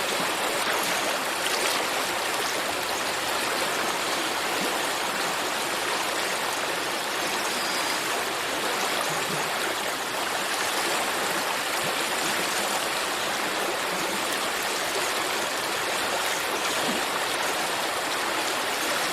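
Stream water flowing: a steady, even rushing with no break.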